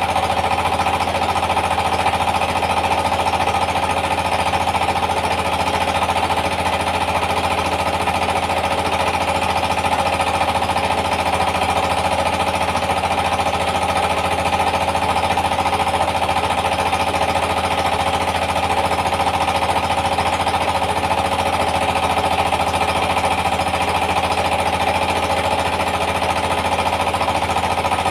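Rice mill driven by a Yanmar TS230 single-cylinder diesel engine, running steadily at constant speed with a fast, even pounding beat and a loud mechanical rattle.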